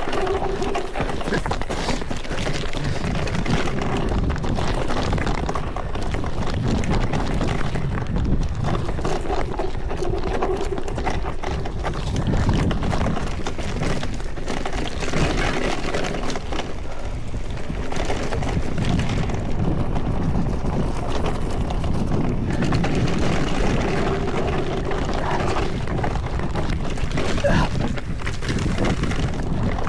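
Mountain bike running down a rough trail: a steady clatter of tyres on dirt and stones, with the bike rattling over the bumps.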